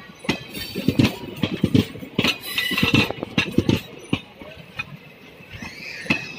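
Passenger train coaches rolling slowly along the track, their wheels knocking and clattering irregularly over the rail joints.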